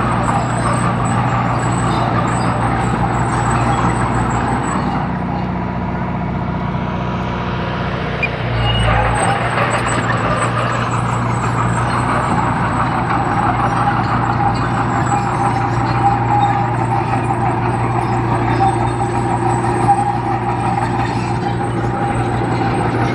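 Heavy diesel earthmoving machine's engine running steadily, with a shift in its low note about eight seconds in.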